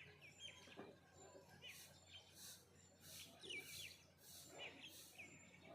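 Songbirds chirping faintly: many short, quick notes that sweep downward. Behind them a faint high hiss pulses about one and a half times a second.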